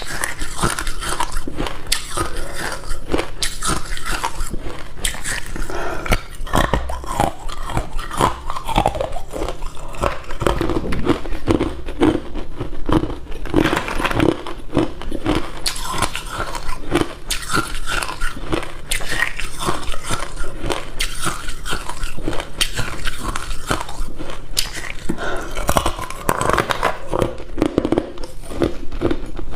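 A person biting and chewing hard ice cubes close to the microphone: a dense, continuous run of sharp, irregular crunches and cracks.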